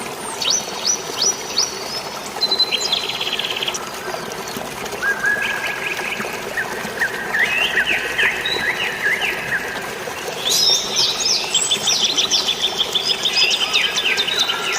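Several forest birds chirping and trilling, overlapping, over a steady wash of rain and flowing water; the birdsong grows busier about two-thirds of the way through.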